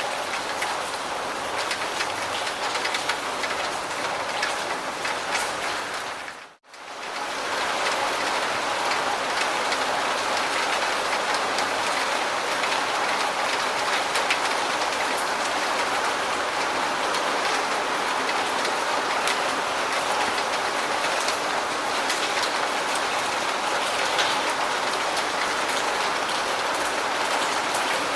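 Steady rain falling, a dense even hiss of drops. About six and a half seconds in it briefly fades out and cuts back in slightly louder, like a splice between recordings.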